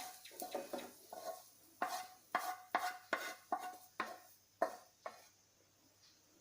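Metal spoon scraping and knocking against a kadai, about two strokes a second with a short metallic ring, as fried onions, garlic and ginger are scooped out onto a plate; the strokes stop about five seconds in.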